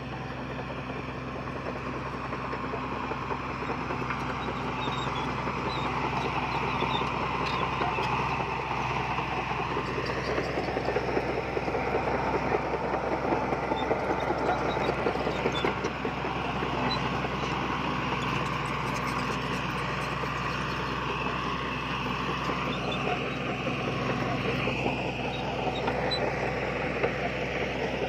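Heavy diesel earthmoving machinery running steadily under load with a dense mechanical clatter, getting louder over the first few seconds.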